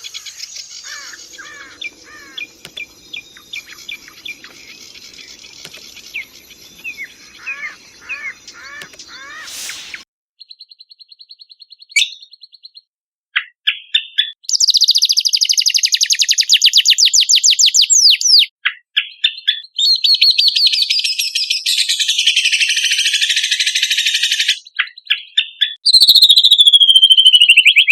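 Songbirds singing: quieter repeated falling chirps over a faint low hum for the first ten seconds, then after a short pause loud, rapid, high-pitched trills and warbling phrases.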